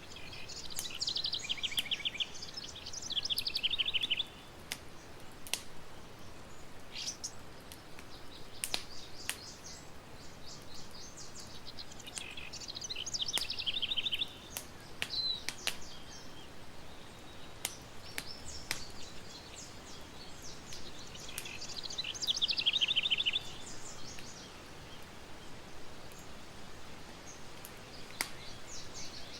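Campfire crackling with scattered sharp pops over a steady soft hiss, while a songbird repeats a rapid trilled phrase of about three seconds roughly every eight or nine seconds.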